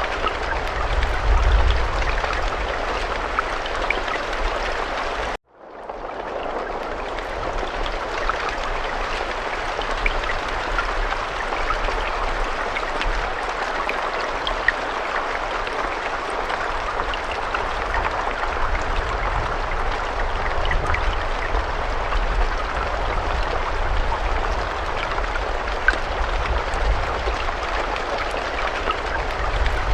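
Steady rain falling: a dense hiss with scattered faint drop ticks and a low rumble underneath. About five seconds in, it cuts out to silence for a moment and fades back in.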